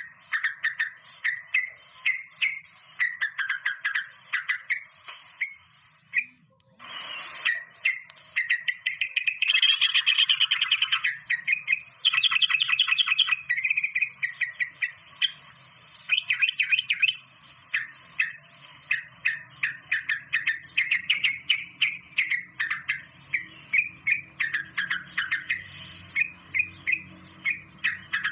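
Birds chirping in quick, continuous series of short chirps, with two fast, louder trilled runs about ten and thirteen seconds in and a brief harsh noise about seven seconds in.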